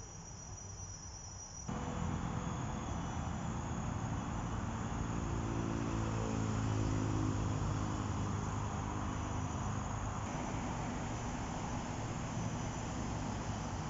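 A steady high insect trill. About two seconds in there is an abrupt cut to louder, steady traffic noise, with a motor vehicle passing in the middle that swells and then fades.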